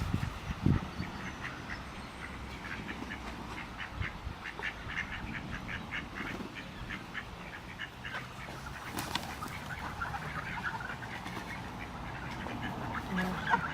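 Ducks calling on a lake: a long run of short, quick quacks, with scattered calls later on. A few low thumps near the start and a brief crackle about nine seconds in.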